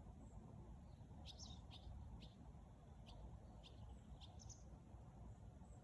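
Faint bird chirps: a run of short, high notes in the middle, over a low steady background rumble.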